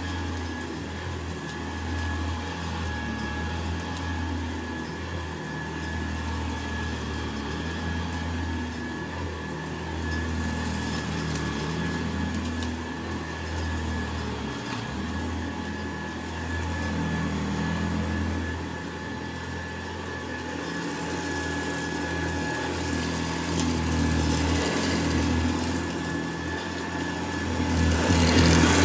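Hoover Model 70 upright vacuum cleaner running, its motor giving a steady low hum under a constant high whine. The level swells and eases gently and gets louder near the end.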